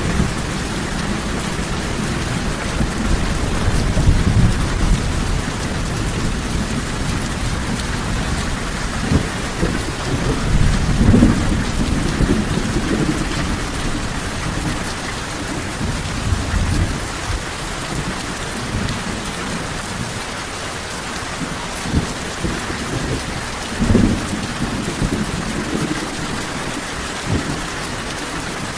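Steady heavy rain with thunder rumbling at intervals, the strongest rumble about ten to thirteen seconds in.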